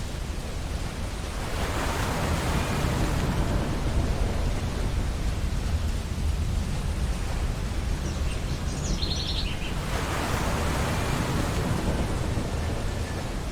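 Ocean waves washing onto a beach over a steady low rumble of surf, with two surges swelling up, one about two seconds in and one about ten seconds in. A bird calls briefly about two-thirds of the way in.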